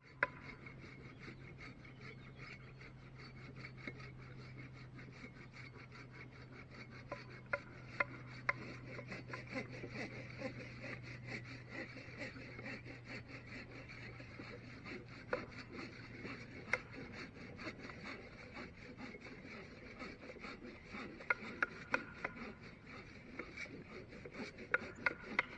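Dry wood being worked by hand: steady rubbing and rasping with many small crackles and a few sharper snaps. A faint low hum underneath fades out about two-thirds of the way through.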